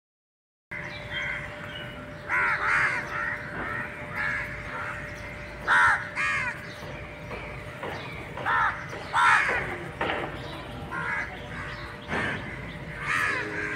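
Birds calling off and on throughout: short harsh calls, often two in quick succession, over a faint steady hum.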